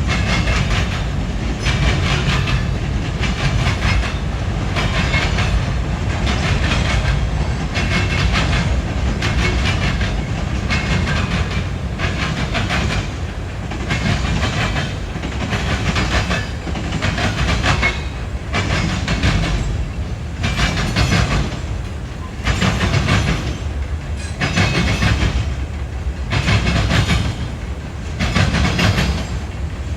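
Freight train cars rolling past with a steady low rumble. The wheels click-clack over rail joints about once a second.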